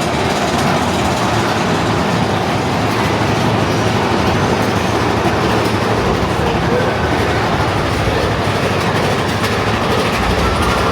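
Mine-train roller coaster cars running along the track, a steady loud rattle and rumble with clickety-clack from the wheels.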